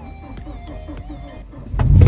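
Hyundai Genesis Coupe 2.0T's turbocharged four-cylinder engine fires up suddenly near the end and keeps running loudly. This is a cold start on a battery only just charged enough to turn it over after three months of sitting.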